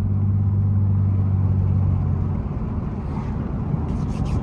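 2002 Pontiac Grand Prix GT's 3.8-litre V6 through a muffler-deleted exhaust, running with a steady loud drone. About two seconds in, the steady tone breaks into a rough, uneven burble, with a few short cracks near the end.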